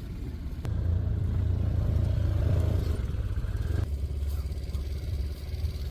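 Side-by-side utility vehicle's engine running steadily as it drives along.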